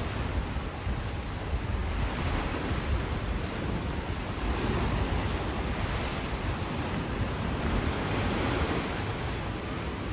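Small waves washing onto the shore in a steady wash of surf, with wind rumbling on the microphone.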